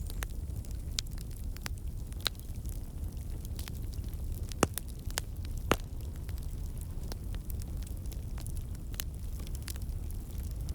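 Wood fire burning in a fireplace: a steady low rumble of flames with irregular crackles and sharp pops, two louder pops about halfway through.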